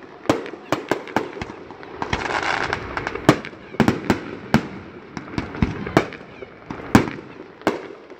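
Aerial fireworks display: shells bursting in a rapid, irregular run of sharp bangs, about two a second, with a brief stretch of hiss about two seconds in.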